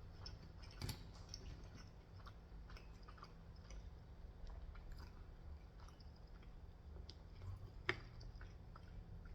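A person chewing food quietly, with small wet mouth clicks; a sharper click about a second in and another near eight seconds.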